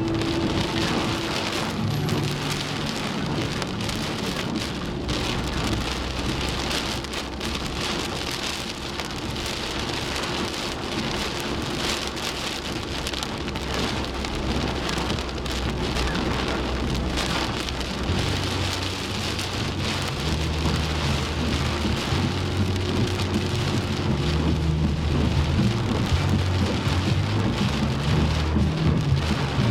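Heavy rain pouring down in a rainstorm, a dense steady hiss, with a low rumble underneath that grows stronger in the second half.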